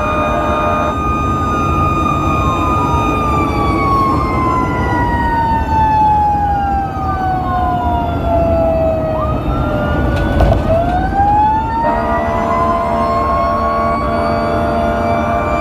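Fire truck warning devices over engine and road noise: a steady multi-note horn-like tone, then a siren winding slowly down in pitch and spinning back up about ten seconds in, with the steady tone returning near the end.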